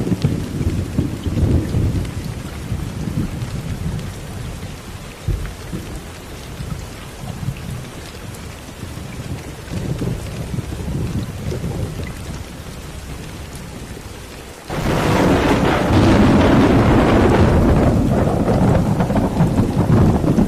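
Low, rolling thunder rumbling over steady rain, slowly easing off. About fifteen seconds in, a much louder rushing hiss of heavy rain starts suddenly and keeps going.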